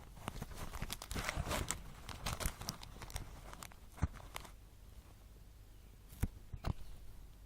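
Plastic packaging crinkling and rustling as it is handled for about three seconds, followed by a few separate sharp clicks.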